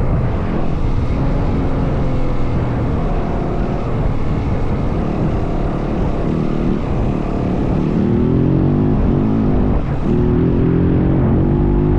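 Yamaha WR450F dirt bike's single-cylinder four-stroke engine running under load while riding. The revs climb from about eight seconds in, break off briefly with a short dip, then hold higher.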